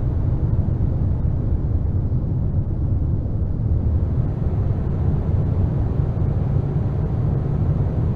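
Loud, steady low rumbling noise drone with no pitch or beat, from an experimental apocalyptic noise composition.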